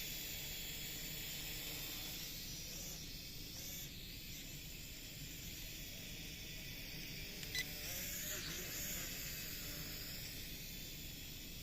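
Small quadcopter drone's propellers giving a steady high hiss and whine as it flies, with wind buffeting the microphone. There is a short click about two-thirds of the way through.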